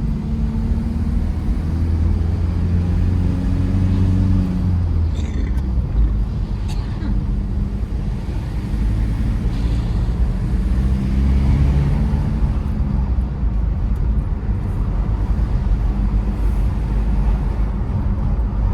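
Tata Safari Storme's 2.2-litre diesel engine running under way with steady road noise, its pitch rising and falling as the SUV accelerates and eases off.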